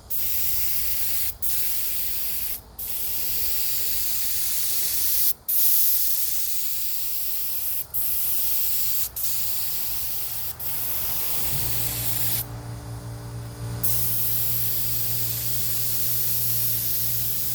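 Compressed-air paint spray gun hissing steadily, cut off briefly each time the trigger is let go between passes. A little past halfway a steady low hum starts and keeps running: the air compressor's motor kicking on.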